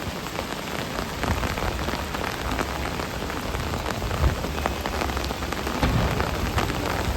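Heavy rain pattering on an umbrella: a dense hiss full of small drop ticks. A couple of low thuds come about four and six seconds in.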